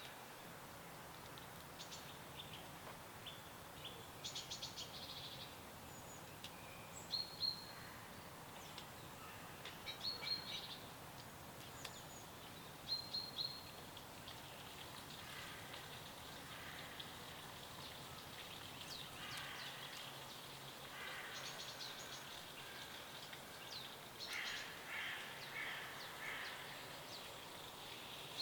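Several songbirds chirping and trilling in short, scattered phrases, with more calls overlapping in the second half, over a faint steady hiss of outdoor ambience.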